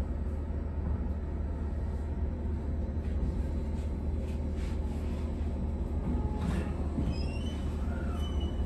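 Cabin running sound of an Abukuma Express AB900 series electric train with Mitsubishi IGBT VVVF equipment: a steady rumble of wheels on the track. A few brief high-pitched tones come near the end.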